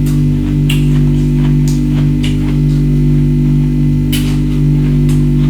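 Ice being bitten and crunched in the mouth: a string of sharp crunches, with a pause of about a second and a half in the middle, over steady low background music.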